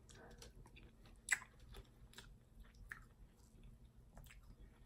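Faint chewing with scattered wet mouth clicks, and one sharper click about a second and a third in.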